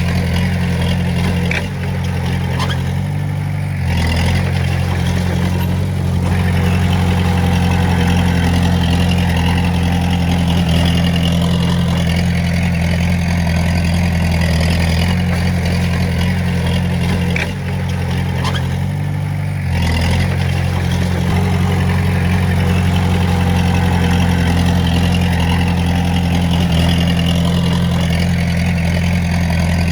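Diesel engine of a Komatsu D20A bulldozer running steadily. Its pitch shifts briefly twice, about two seconds in and again a little past the halfway point.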